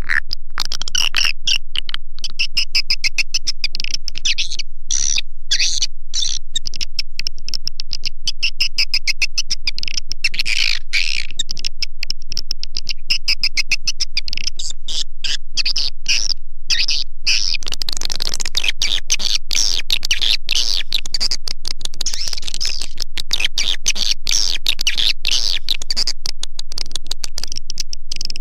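Swiftlet call playback track (suara panggil), the recorded swiftlet twittering played from a swiftlet house's tweeters to lure edible-nest swiftlets. Dense, rapid, high chirps run without a break at an even loudness, turning noisier about two-thirds of the way through.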